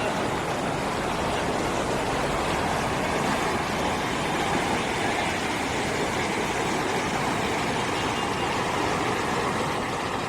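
Steady road and engine noise of a moving car, an even rushing sound with no separate knocks or tones.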